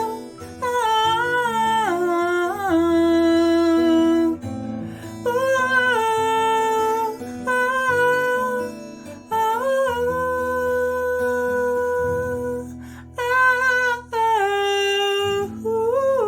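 A woman singing long wordless held notes that step between pitches, with an acoustic guitar accompanying underneath, as the song closes.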